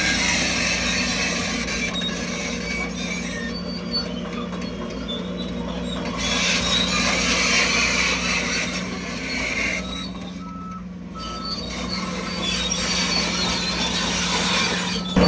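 Heavy earthmoving machinery engines running steadily. In the second half a reversing alarm beeps in short, evenly spaced pulses, and the engine noise grows louder right at the end.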